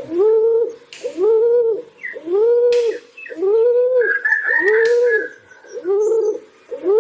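Pigeons cooing, seven arched coos at about one a second. A higher drawn-out call overlaps the coos about four seconds in, and a few sharp clicks are heard.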